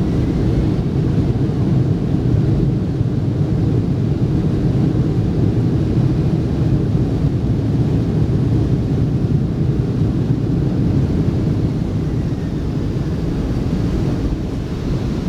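Steady low rumble inside the cabin of a Boeing 757-200 on the runway after landing, from its engines and wheels, easing slightly near the end.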